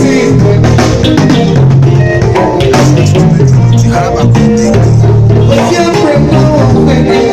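A band playing an upbeat tune during a sound check: held low notes that change pitch every second or so, under drums and shakers.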